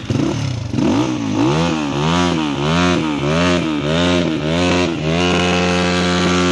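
A standing motorcycle engine is revved hard over and over, about two blips a second, then held at a steady high speed near the end. It is being revved to show off its exhaust note.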